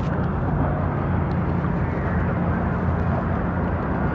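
A steady low engine drone holding an even pitch throughout, with no change in level.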